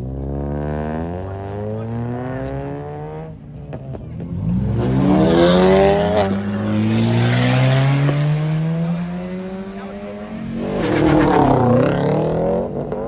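Car engines revving and accelerating as cars pull away, the engine pitch climbing in one long pull through the middle, with another burst of acceleration near the end.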